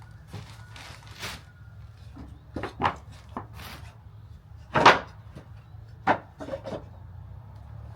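Wooden ceiling boards being handled and fitted: irregular knocks and scraping of wood on wood, several in a row, the loudest about five seconds in.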